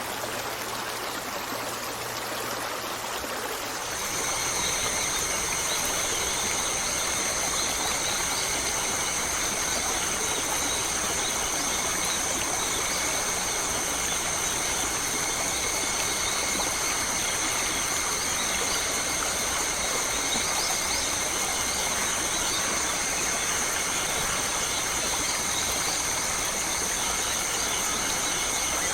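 Flowing water: a trickling stream that about four seconds in gives way to a louder, fuller rush of water, with a steady high-pitched ringing that holds unbroken over it.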